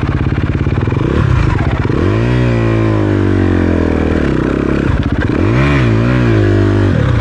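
Dirt bike engine running under changing throttle on a rocky trail: it revs up sharply about two seconds in and winds down slowly, then revs up and eases off twice more near the end.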